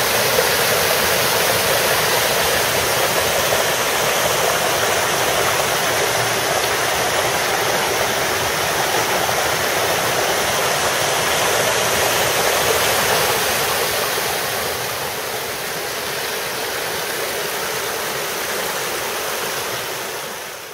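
Rain-swollen creek running fast: a steady rush of water that eases slightly about two-thirds of the way through and fades out at the very end.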